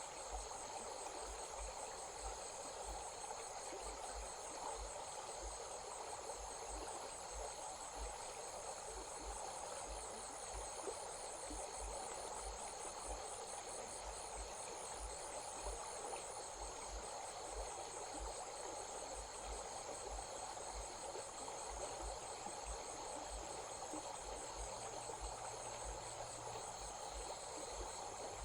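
Crickets chirring in a steady, fast-pulsing high trill, over the even rush of a flowing stream.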